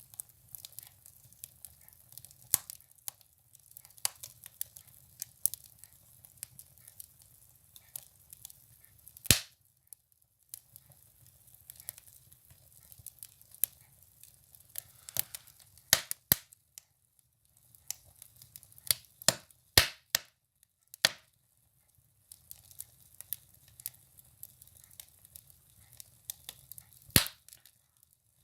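Firewood burning in a wood stove, crackling with irregular sharp pops and snaps, a few of them much louder than the rest.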